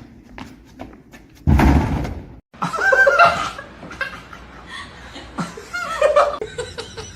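A loud crash or thump lasting about a second, followed after a brief silent gap by people laughing, with a second burst of laughter near the end.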